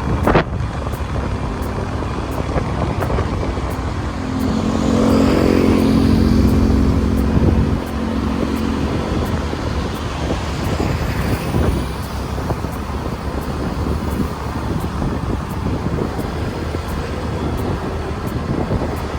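Motorbike riding along a road: the engine running, with wind and road rumble. About four seconds in, a louder engine hum swells for roughly three seconds, then drops away sharply.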